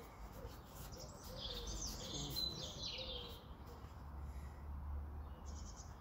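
A small bird singing a quick, high burst of chirps and trills for about two seconds, starting about a second in, followed by a second short call near the end, over a faint low rumble.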